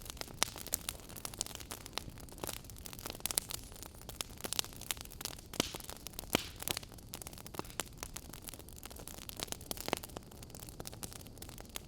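Wood fire crackling in a fireplace: irregular sharp pops and snaps, several a second, over a steady low hiss.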